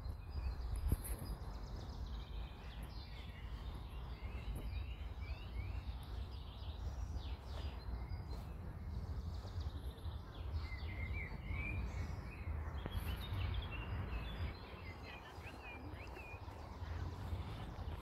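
Small birds chirping and singing, many short sliding calls scattered throughout, over a steady low rumble.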